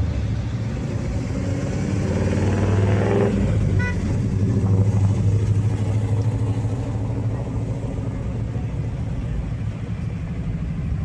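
Car engine running with a deep, steady rumble. About two seconds in, an engine revs up, rising in pitch until it drops back sharply after about three seconds, followed by a brief high tone.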